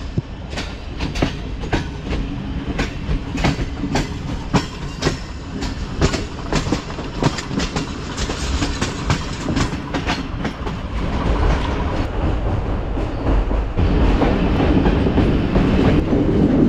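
Passenger train running on the track, its wheels clicking steadily over the rail joints. About two-thirds of the way through, the running noise grows louder and denser.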